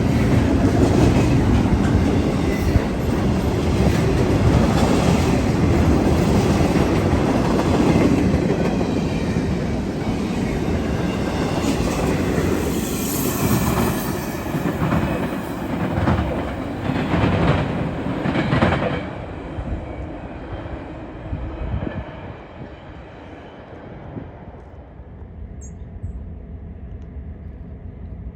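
Freight train rolling past close by: a steady rumble with wheels clacking over the rail joints, dying down about two-thirds of the way through as the train goes by.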